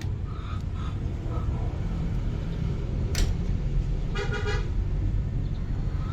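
A vehicle horn gives one short toot about four seconds in, over a steady low rumble. A sharp click comes just before it.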